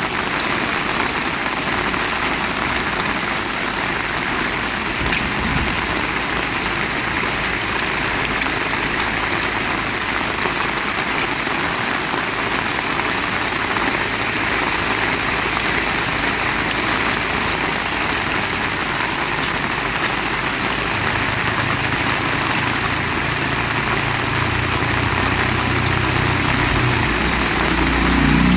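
Heavy rain falling steadily. Over the last several seconds, the low sound of a motor vehicle's engine comes in and grows louder as it approaches.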